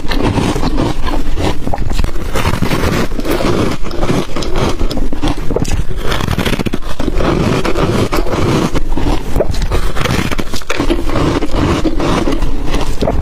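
Ice dusted with matcha and milk powder being bitten and crunched close to the microphone: a dense, unbroken run of loud crunches and cracks.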